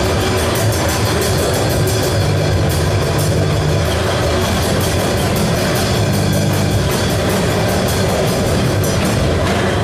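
Harsh noise music: a loud, unbroken wall of distorted sound with fast, rapid-fire drum hits.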